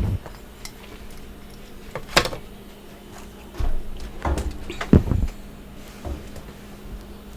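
Crunching bites of freezer frost, a handful of separate crunches with the loudest about five seconds in, over a steady low hum.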